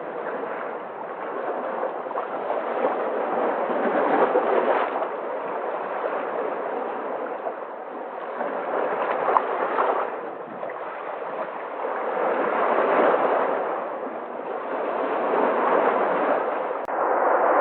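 Sea waves breaking, the surf swelling and falling back every few seconds. Near the end the sound steps up suddenly to louder surf.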